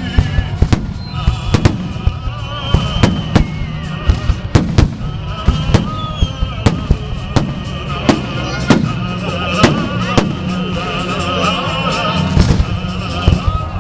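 Holiday fireworks salute: shells bursting in an irregular series of sharp bangs, about one or two a second, over a continuous background of music and crowd sound.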